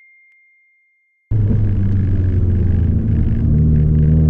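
A bell-like ding fades out over the first second, and after a short silence a Honda Civic Nouva's engine cuts in sharply, heard from inside the cabin. From about three and a half seconds its pitch climbs steadily as the car accelerates in second gear.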